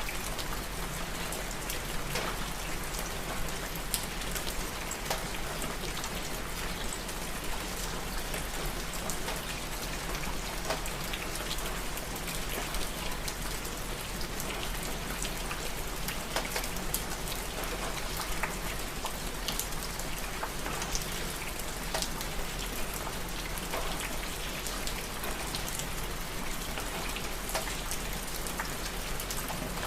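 Steady rain falling, with many individual drops ticking sharply against a surface over an even hiss.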